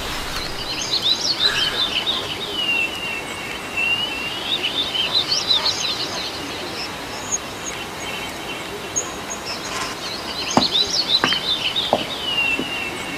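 Many songbirds chirping and singing together, quick overlapping twitters and repeated swooping calls. A few sharp clicks come between about ten and twelve seconds in.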